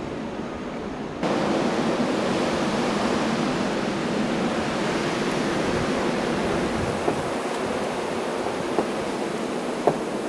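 Steady rushing wind noise of a blizzard, stepping up abruptly louder about a second in, with a few faint clicks near the end.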